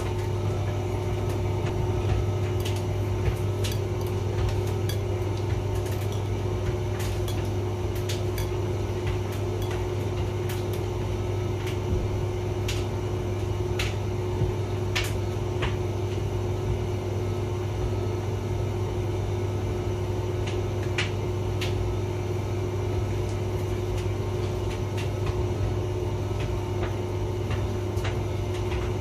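Hotpoint vented tumble dryer running mid-cycle: a steady hum from the motor and drum, with irregular light ticks scattered through it.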